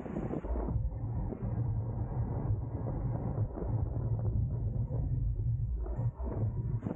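Wind rumbling over the microphone of a camera riding on a racing bicycle in a moving pack, a steady low rumble with occasional stronger gusts.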